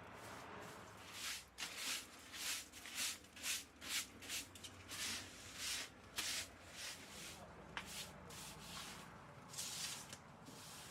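Rhythmic scrubbing strokes during cleaning, about two a second, easing off past the middle, with one more stroke near the end.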